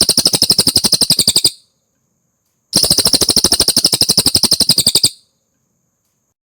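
Cililin songbird singing a fast, evenly pulsed trill of about a dozen notes a second. The first phrase stops about one and a half seconds in, and after a pause of about a second a second phrase runs for about two and a half seconds.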